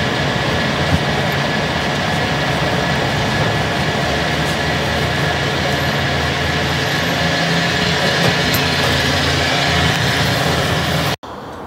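A vehicle engine running steadily, a constant hum under an even roar of noise. It cuts off suddenly near the end.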